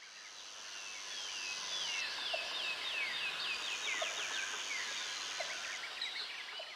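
Jungle ambience of many birds calling in quick, sweeping chirps and trills, over a steady high buzz that breaks off and starts again midway. It fades in and fades out.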